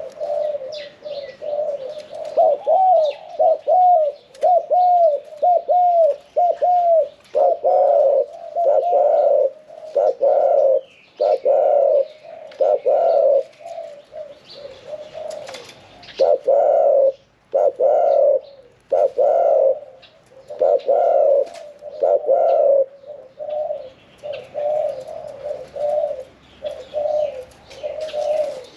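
Spotted dove crowing in competition style, with a medium-pitched voice: repeated deep coo phrases, quick short notes in the first few seconds, then longer, fuller coos about one a second. Faint chirps of small birds are heard behind it.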